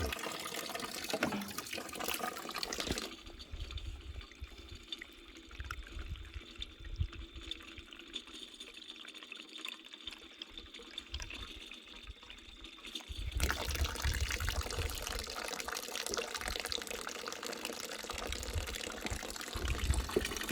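Running water, like a tap or spout, with a steady splashing rush. It is louder for the first three seconds, softer until about thirteen seconds in, then louder again.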